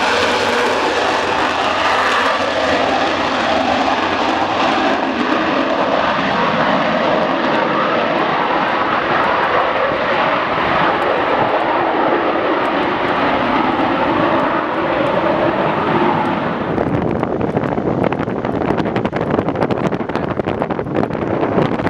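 Loud, steady jet noise from a Eurofighter Typhoon passing by, dying away quickly about 17 seconds in, after which wind buffets the microphone.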